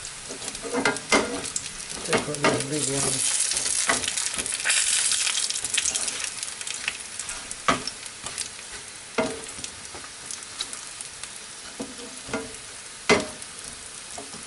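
Green plantain pieces sizzling as they shallow-fry in oil in a frying pan. The sizzle swells for a few seconds from about three seconds in. Scattered clicks and scrapes of metal tongs against the pan come as pieces are placed and turned.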